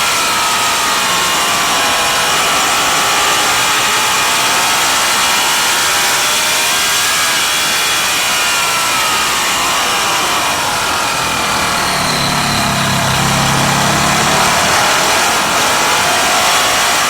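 Racing motorcycle engine at race speed, its revs rising and falling repeatedly through the gears and corners, over a steady rush of noise.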